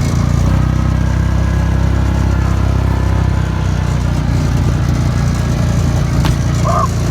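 A small engine running steadily at an even speed. Near the end a dog gives a short yip.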